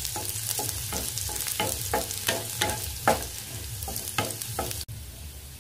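Chopped onion, garlic and green chillies sizzling in hot oil in a kadai, being fried until browned, while a wooden spatula stirs them with quick scrapes against the pan about three times a second. Near the end the stirring stops and a quieter sizzle is left.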